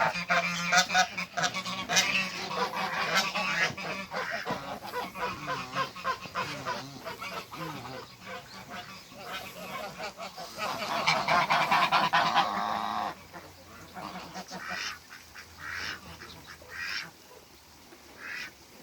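African geese honking repeatedly, with a loud, sustained stretch of calling about ten seconds in and only scattered calls near the end.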